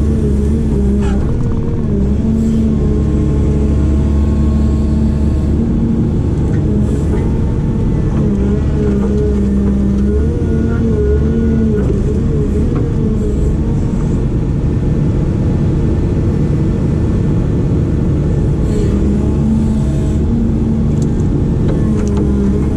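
Heavy diesel engine of an excavator or backhoe running steadily under hydraulic load, its pitch rising and falling as the machine works.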